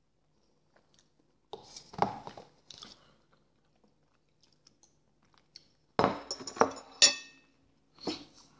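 Close-up chewing and biting of a man eating potato vareniki (dumplings) with sour cream, in bursts about 1.5 s in, around 6 s and near the end. About 7 s in, a sharp clink rings out, typical of a fork striking the plate.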